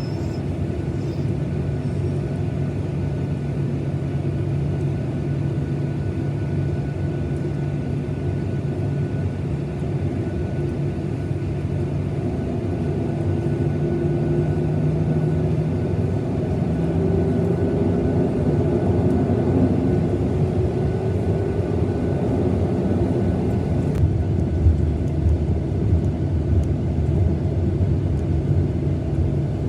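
Boeing 737-900ER's CFM56 jet engines heard from inside the cabin: a steady low hum with a thin high whine. Partway through, the engine tones glide upward and the sound grows slightly louder.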